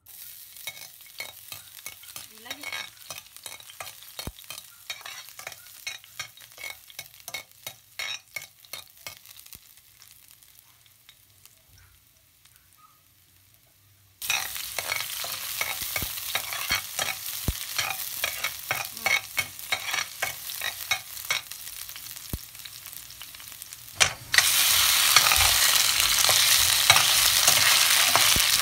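Cooking oil heating and crackling in a frying pan with scattered pops. About halfway in, chopped garlic sizzles in the oil. Near the end, skinless longganisa sausages fry with a louder, dense sizzle.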